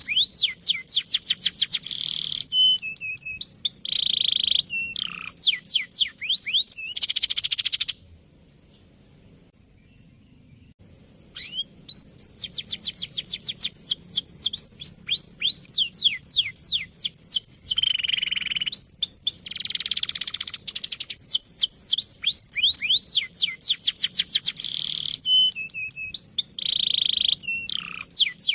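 Male domestic canary singing rolling trills: long runs of rapid, repeated down-slurred high notes broken by short buzzy phrases. The song stops for about three seconds roughly a third of the way in, then resumes.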